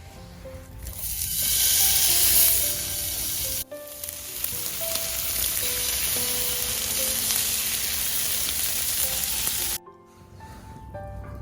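Meat sizzling and frying in a hot pan. The sizzle swells about a second in, breaks off briefly, then carries on steadily before cutting off suddenly near the end.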